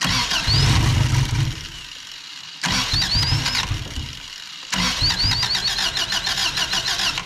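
Subaru BRAT's flat-four engine cranked three times in quick succession, firing and running briefly on each attempt. It is an engine that has sat unstarted for about ten years.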